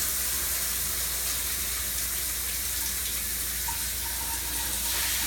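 Water spraying steadily from a Happy Moon 6-inch high-pressure shower head, an even hiss of spray running at strong pressure.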